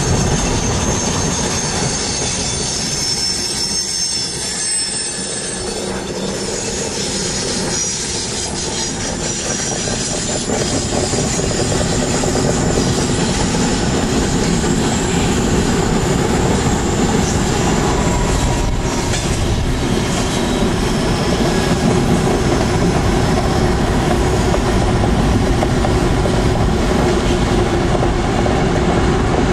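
Railroad cars rolling steadily past, with wheel noise on the rails and high-pitched wheel squeal in the first few seconds.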